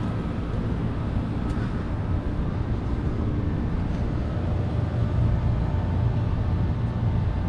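Steady low rumble of a 30-ton rooftop makeup air unit running, its blower pulling in 100% fresh air, with a faint hum in the middle of the stretch.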